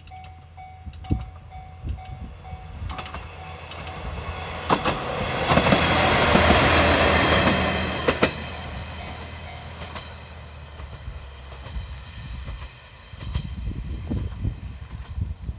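Yodo Line diesel railcar passing over a level crossing: the sound swells to its loudest about six seconds in, with sharp wheel clacks over the rail joints, then fades to a low rumble. A level-crossing bell rings in a steady repeating tone for the first few seconds.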